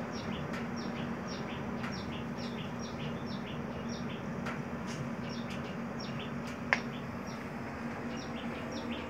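A bird chirps over and over, short falling chirps about three a second, over a steady low hum and rush from the running biomass stove. A single sharp click sounds about two-thirds of the way through.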